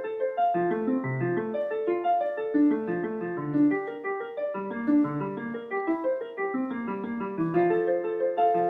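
Solo piano music: a steady flow of single notes and chords.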